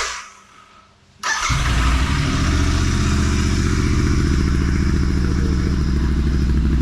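Royal Enfield Continental GT 650's parallel-twin engine catching about a second in and settling into a steady, evenly pulsing idle through a freshly fitted Red Rooster Stellar aftermarket exhaust, its dB killer still in place.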